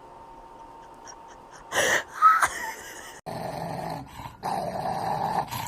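A dog growling in long, steady rumbles broken by short pauses, starting about three seconds in, after a couple of brief loud bursts of noise.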